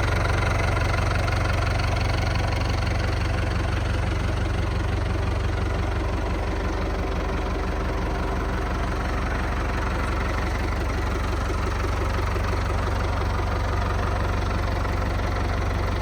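International Harvester 544 row-crop tractor engine idling steadily.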